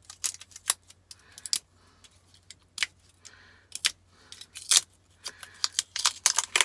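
Irregular sharp clicks and clinks of small metal scrap parts being handled, with a few short scrapes, as the plastic covering is cut and pulled off with a utility knife.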